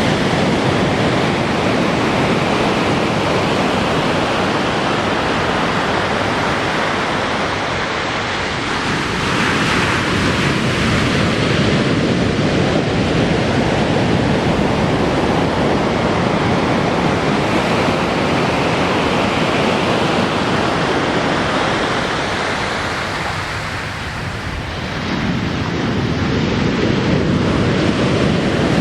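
Ocean waves breaking and washing up on a beach in a steady rush of surf, with wind on the microphone. The surf eases briefly a little before the end, then swells back up.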